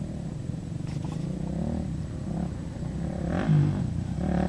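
Dirt bike engine running, its pitch rising and falling and getting louder toward the end.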